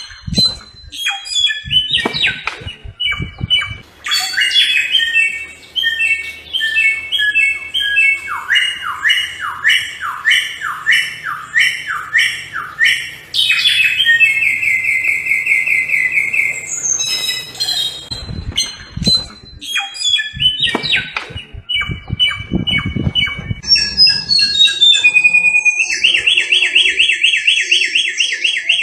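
Samyong (garugiwa) singing: a long, varied song of repeated clear whistled notes, series of falling sweeps and fast buzzy trills, phrases following one another with only short breaks.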